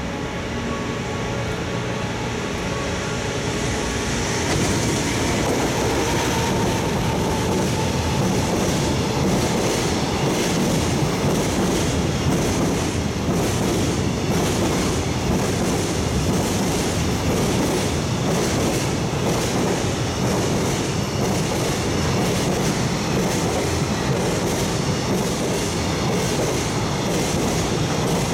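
JR Freight EF200 DC electric locomotive passing with its container freight train: a steady electric hum from the approaching locomotive, then the wagons' wheels clattering over the rail joints in a long, even clickety-clack. The sound grows louder about four seconds in as the locomotive draws level.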